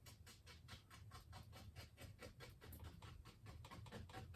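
Faint, quick, even tapping of a fan brush dabbing oil paint onto a canvas, several light strokes a second.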